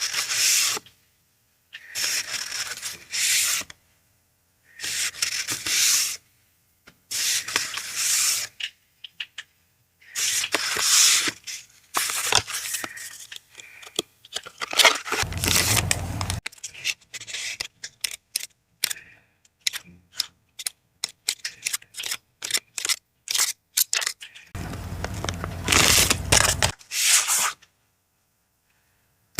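Paper and packaging handled close to the microphone: a series of separate rustling, tearing strokes a second or two long with short pauses between them. In the middle comes a run of quick crinkling crackles, and twice the handling adds a heavy low rumble.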